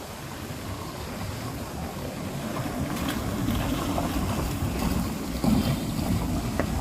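Vehicle passing on a wet road in the rain: engine rumble and tyres hissing on wet asphalt, growing louder as it approaches. A couple of short clicks near the end.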